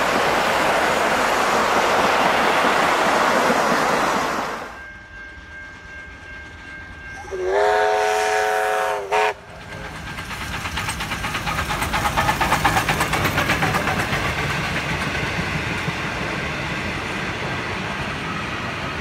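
Passenger carriages rolling past with a steady rush of wheel and wind noise. Then a steam locomotive sounds a chime whistle of several tones for about two seconds, its pitch rising briefly as it opens. The train then runs by with a rapid rhythmic clatter that swells and settles.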